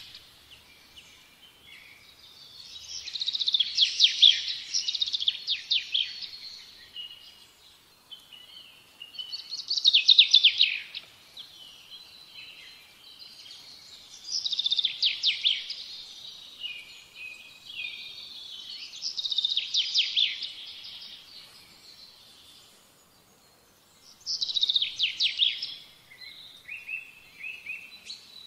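A songbird singing: high-pitched phrases of rapid chirping trills, each about two seconds long, repeated every four to five seconds with fainter twittering in between.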